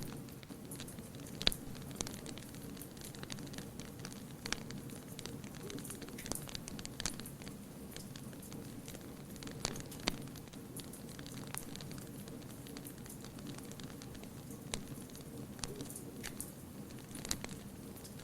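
Wood fire crackling: irregular sharp pops and snaps, a few louder than the rest, over a steady low background.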